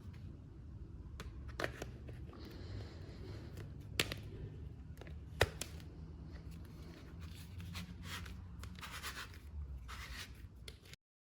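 Hands handling toy packaging: a few sharp clicks and snaps, then stretches of rustling and scraping, cutting off abruptly near the end.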